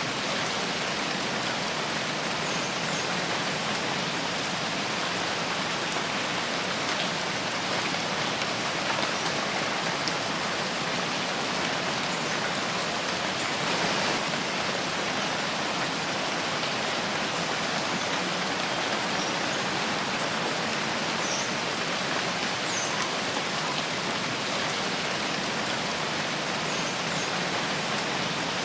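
Steady rain falling in a forest, a dense, even patter with no pauses and a slight swell about halfway through.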